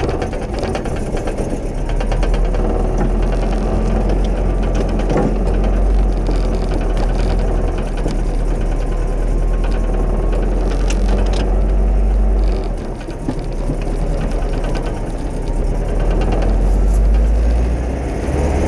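Datsun 620 pickup truck's engine running under way, with a steady low rumble and a rattly mechanical clatter, heard from inside the cab. The engine note eases off briefly about two-thirds of the way through, then picks up again.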